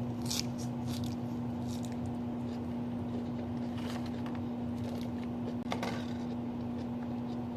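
Eating sounds: chewing, with a few short clicks and scrapes of a utensil in a food container, over a steady low hum.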